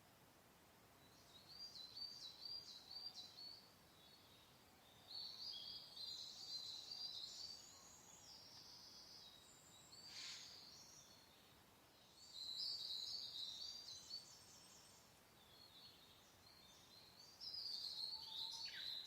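Songbirds singing in short bursts of quick repeated high notes, about six phrases with pauses between them, over a faint steady hiss.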